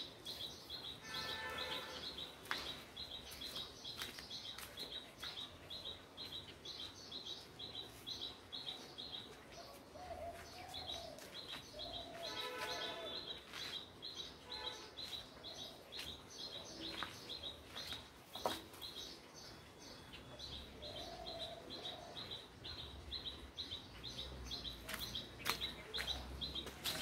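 A bird chirping in a fast, steady series of high chirps, about four a second, breaking off briefly near the middle, with other bird calls and a few sharp knocks now and then.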